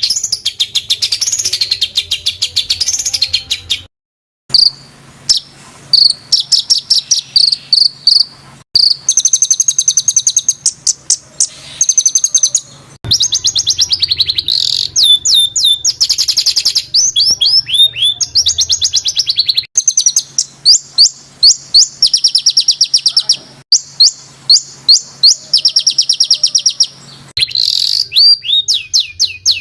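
Songbird 'masteran' recording of harsh, tightly packed rolled trills and rapid-fire sharp notes, high-pitched and loud, with some notes sweeping downward; the phrases are spliced back to back, with one short silent break about four seconds in.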